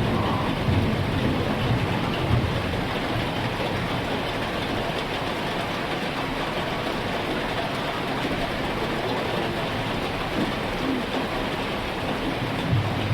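Heavy rain falling steadily, with low rumbles of thunder swelling near the start and again near the end.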